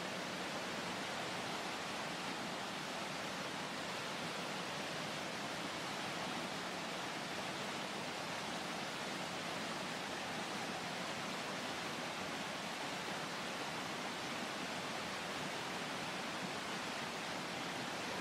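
The steady roar of a creek's rapids and waterfalls: an even, unbroken rush of falling water that does not change.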